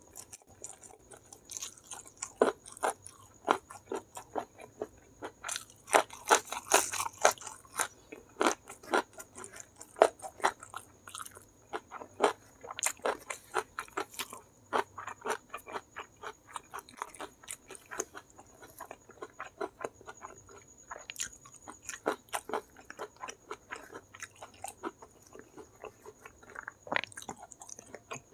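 Close-up chewing and crunching of a mouthful of crispy battered fried chicken with rice, in irregular crunchy bites that come thickest about six to nine seconds in and again around twelve to fifteen seconds.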